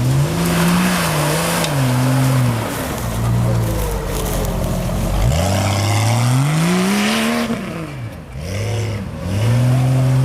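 An off-road 4x4's engine revving hard, its pitch rising and falling several times, with a loud rushing noise over it.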